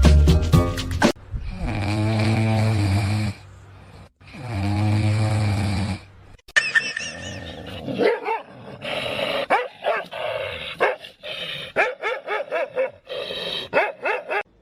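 A dog vocalizing: two long, drawn-out calls of about two seconds each, then a rapid run of short barks and yips.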